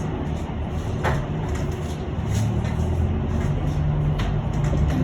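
Cabin of a moving electric bus: a steady low hum over road noise, with a few sharp knocks and rattles from the body, one about a second in and another near four seconds.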